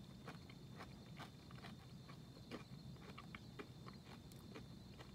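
Faint chewing: soft, irregular mouth clicks several times a second over a steady low hum and a thin high whine of room tone.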